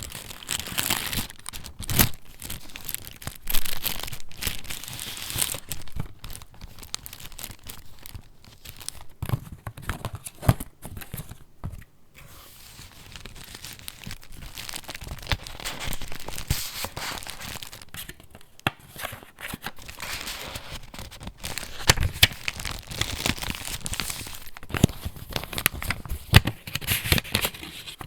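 Paper pages of a handmade junk journal being turned and handled: continuous rustling and crinkling, with a few sharp taps and snaps of paper here and there.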